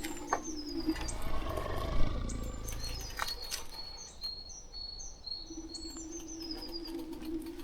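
Small birds calling: a quick series of short high chirps, about two or three a second, with a few falling whistled notes. Under them runs a steady low hum that stops about a second in and comes back about two-thirds of the way through.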